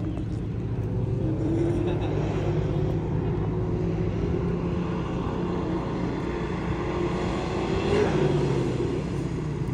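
Vehicle engine running steadily, its pitch wandering up and down and rising briefly about eight seconds in.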